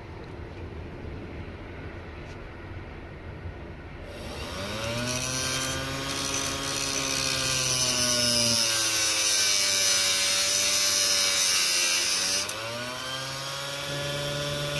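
A small high-speed rotary tool starts about four seconds in and grinds with a strong hiss. Its motor pitch sags and recovers twice as it is pressed into the work and eased off. Material is being ground off a part so that it will fit.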